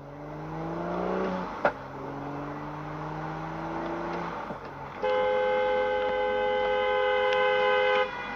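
A car engine accelerates, its pitch rising twice with a short break between, like a shift up a gear. Then a two-tone car horn is held for about three seconds and cuts off.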